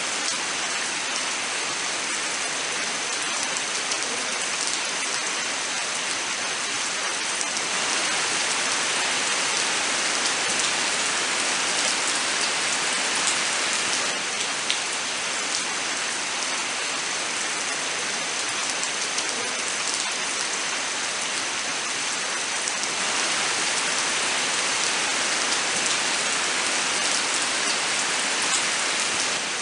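Steady, even rain, with scattered individual drops ticking out clearly.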